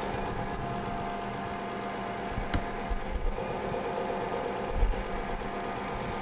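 Toyota 3.0 V6 engine idling with a steady hum while head gasket sealant is poured into its cooling system. The engine has a combustion leak into the coolant that a block test confirmed. A single sharp click comes about two and a half seconds in.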